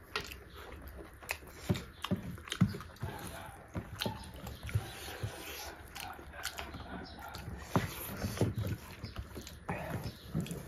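Close-miked wet chewing and lip smacking from two people eating beef curry with rice, in irregular short smacks and clicks, with fingers squishing and scooping rice.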